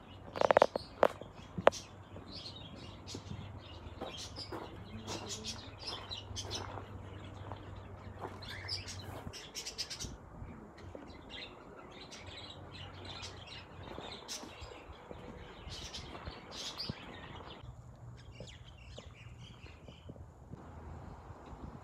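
Small birds chirping and twittering over and over, with a few sharp clicks or knocks in the first two seconds and a low steady hum underneath.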